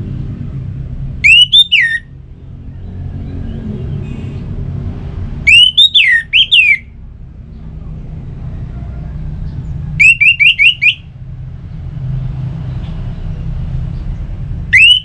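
Orange-headed thrush (anis merah) singing loud whistled phrases: four short phrases about four seconds apart, each a rising and falling whistle or a quick run of repeated notes. A steady low rumble runs underneath.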